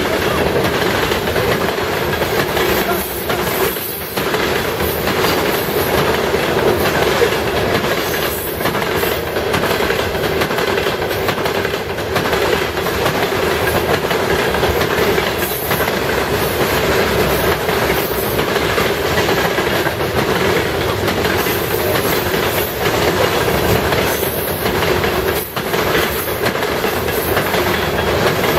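Freight cars of a Union Pacific grain train rolling past, a steady rumble of steel wheels on rail with repeated clicks as the wheels cross rail joints. Brief high-pitched wheel squeals come through now and then.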